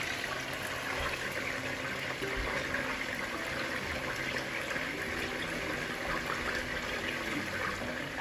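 Chicken legs frying in hot oil and ghee in a frying pan covered with a glass lid: a steady sizzle.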